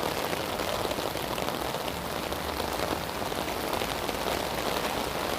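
Heavy rain falling steadily: an even hiss of rain with scattered drop ticks.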